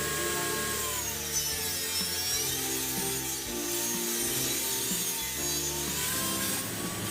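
Power saw cutting wood: its motor whine drops in pitch as it takes the load about a second in and climbs back near the end. Background music plays under it.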